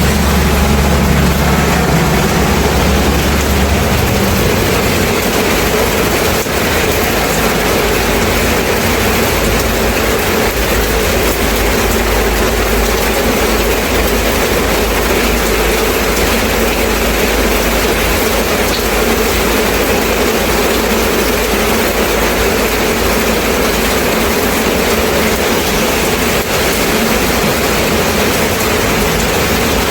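Steady rain, with a low rumble underneath that is strongest for about the first four seconds and then eases.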